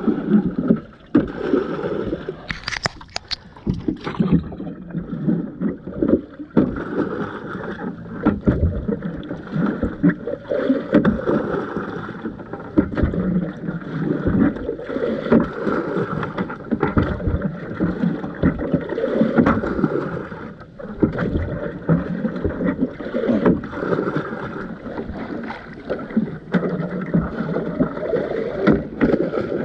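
Water sloshing and splashing in and around a swamped canoe, with frequent irregular knocks against the hull.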